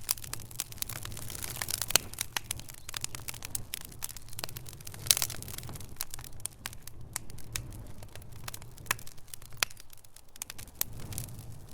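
Wood fire crackling in a fireplace: irregular sharp pops and snaps over a low steady rumble of burning, with a louder pop about five seconds in.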